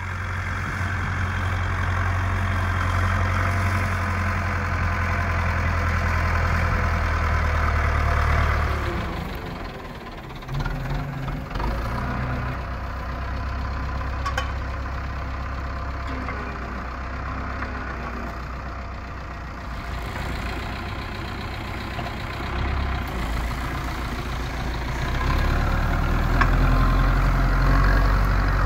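Zetor 6245 tractor's four-cylinder diesel engine running hard while plowing. It eases off about nine seconds in and gets louder again near the end.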